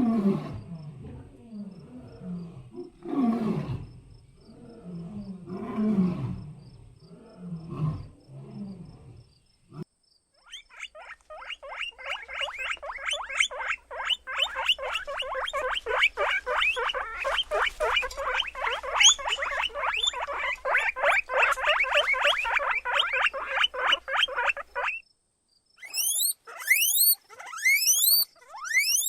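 A sequence of different animal calls: first deep roars repeated about every two seconds, then a long, dense, rapid chattering, then a few high-pitched calls that sweep sharply downward.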